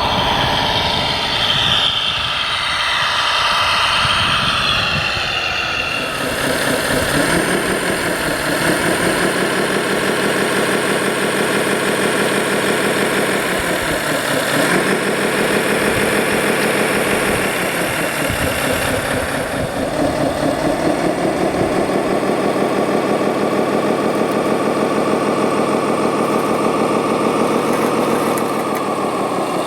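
An RC construction model's engine sound rising in pitch, holding, then dropping and climbing again about three times, like a diesel being revved under work. For the first few seconds a busier mechanical whirr is mixed in higher up.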